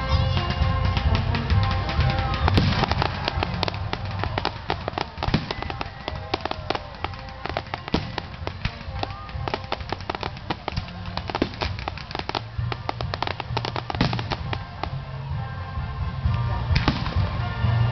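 Fireworks crackling and popping in a dense, rapid stream, over music with a heavy bass.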